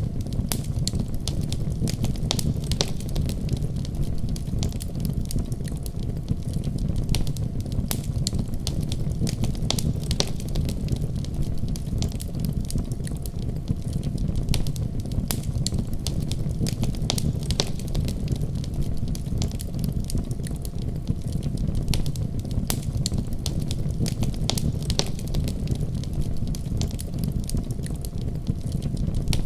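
Wood fire burning with a steady low rumble of flame and frequent sharp crackles and pops.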